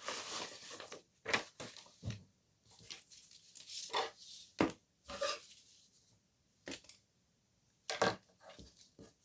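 Irregular light taps and rustles of paper and card being handled as an ink pad is dabbed along the edges of paper pockets.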